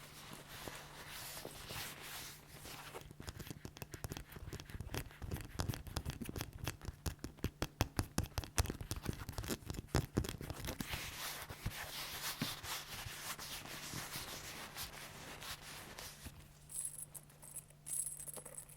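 Leather being squeezed and flexed close up, giving a dense run of small crackling creaks, quicker and louder in the middle stretch and thinning out near the end.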